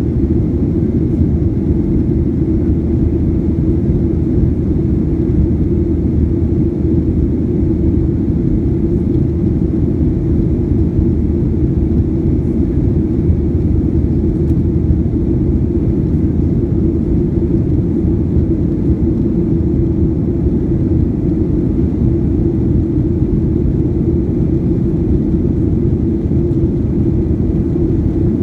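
Steady low rumble of a Boeing 737-800 in flight: its CFM56 turbofan engines and the airflow, even and unchanging.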